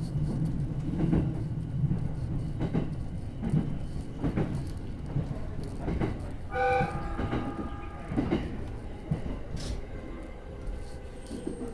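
Electric commuter train running over the rails as it slows into a station, heard from inside the front car: a low rumble with irregular wheel clicks over rail joints and points, easing off toward the end. About halfway through comes a short horn-like tone.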